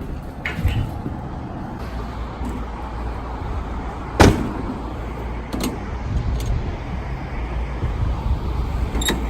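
A vehicle engine running steadily at idle, with one loud sharp bang about four seconds in and a few lighter clicks later on.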